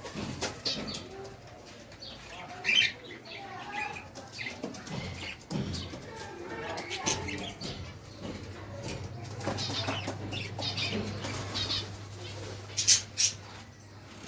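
Pigeons flapping their wings and cooing in their pens, with many short high chirps from small birds scattered throughout. A couple of brief sharp knocks stand out, and a low steady hum comes in about halfway through.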